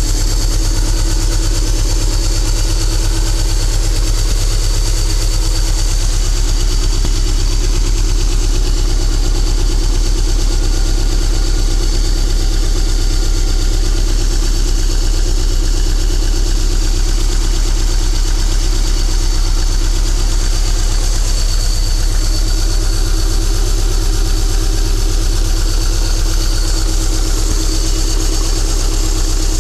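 2.5 liter Subaru flat-four boxer engine idling steadily at about 1000 rpm. It has sat unstarted for about a week in the cold, and the owner judges it to be running well.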